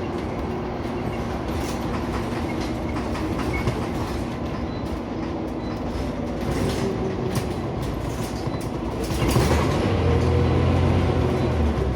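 Scania Omnicity single-deck bus heard from inside the passenger saloon: steady engine and road noise while moving, then about nine seconds in the engine gets louder with a strong low drone and its pitch climbs as the bus picks up speed.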